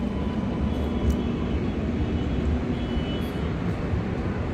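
Steady low rumble of a train standing at the platform with its engine and systems running, not moving off.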